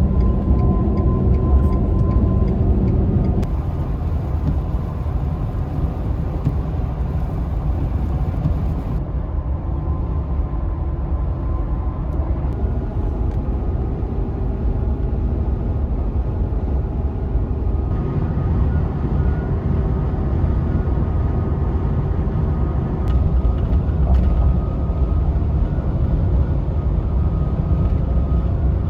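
Ford F-150 pickup driving at road speed: a steady, low rumble of engine and tyre noise. Its tone shifts abruptly a few times.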